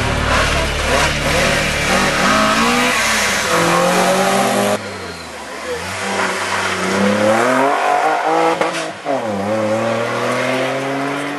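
Rally car engine accelerating hard, its pitch climbing, falling at a gear change about nine seconds in, then climbing again. Before an abrupt cut about halfway through, the engine runs with dense tyre and road noise.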